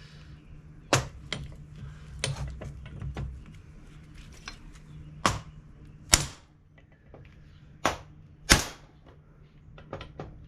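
Hammer blows driving the old pin out of a 1970 Chevelle door hinge: several sharp, irregularly spaced strikes with lighter taps and clinks between them.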